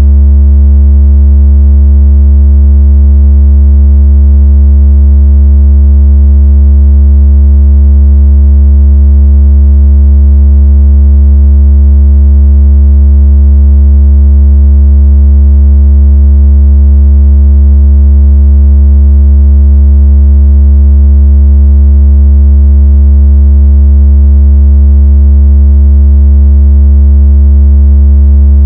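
Very loud, steady, deep synthetic tone, a 'water out of speaker' bass vibration sound meant to make a phone speaker shake water out. It holds one unchanging pitch with faint overtones above it.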